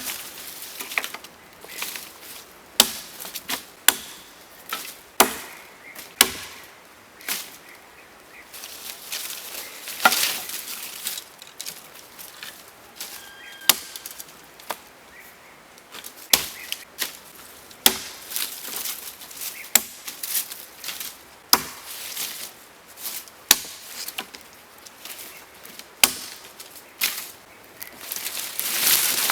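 Wood being chopped: a long series of sharp, irregular blows, roughly one a second.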